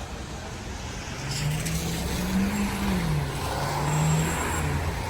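A motor vehicle driving past on the street, its engine note rising and then falling over about three seconds, over steady traffic noise.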